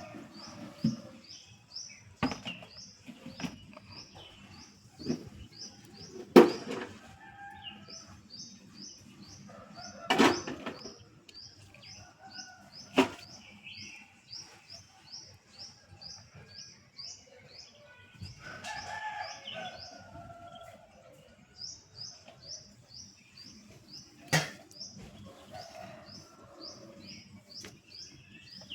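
A bird repeating a short, high chirp about three times a second in long runs, with pauses between runs. Several sharp knocks and some rustling come through close by, the loudest about six and ten seconds in.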